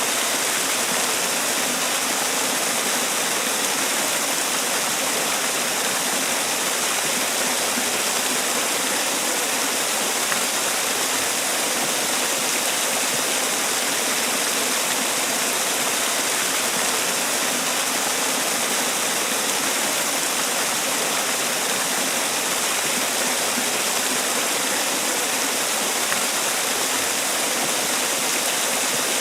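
Man-made waterfall: water pouring and splashing in a steady, unbroken hiss, strongest in the high range.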